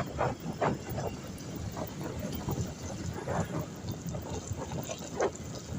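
Traffic on a rain-soaked road: tyres hissing and splashing through water over a low rumble, with irregular swishing surges and wind buffeting the microphone.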